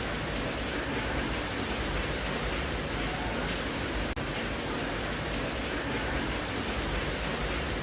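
Steady rain, an even dense hiss with no breaks in its texture except an instant's dropout about four seconds in.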